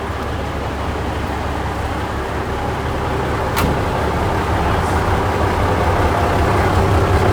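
Military truck's diesel engine idling steadily to charge the batteries, slowly getting louder. There is a single sharp click about three and a half seconds in.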